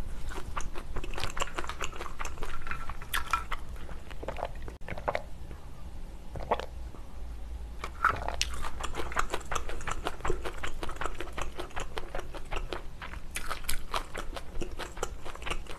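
Close-miked chewing and mouth clicks of a person eating a mouthful of food, with a quieter stretch around the middle.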